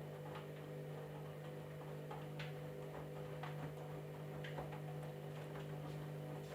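Candy washing machine running, a steady low hum with irregular light clicks and ticks over it.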